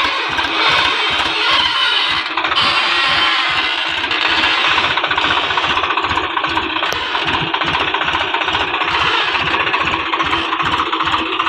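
Swaraj 735 XT tractor's diesel engine running steadily, with an even, rapid beat.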